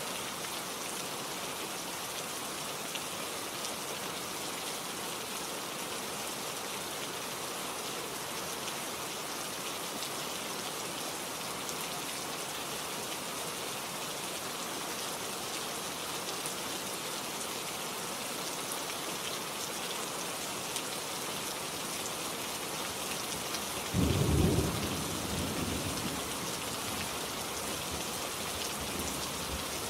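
Steady rain falling, with a sudden clap of thunder near the end that rumbles away over a couple of seconds.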